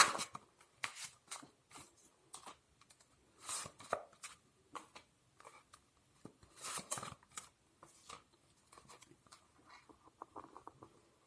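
Tarot cards being handled and shuffled: irregular soft snaps and clicks, with a couple of brief card swishes about three and a half and seven seconds in.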